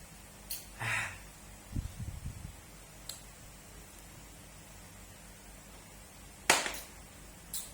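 Close-up eating noises: scattered mouth smacks and clicks, a breathy hiss about a second in, a few soft thumps, and one sharp loud smack later on.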